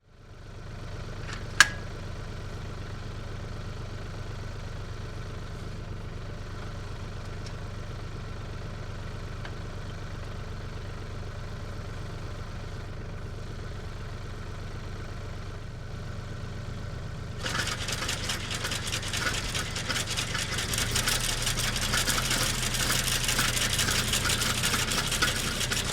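An engine running steadily with a low drone. A sharp click comes near the start, and from about two-thirds of the way through a loud rattling clatter joins the engine.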